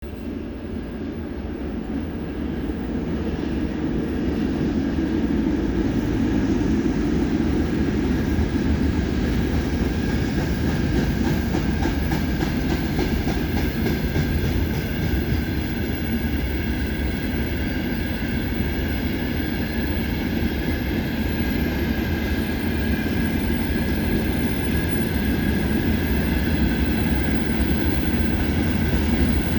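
VL10U electric locomotive hauling a freight train, the rumble of wheels on the rails and the passing wagons. It grows louder over the first several seconds, then holds steady, with a faint steady whine above it.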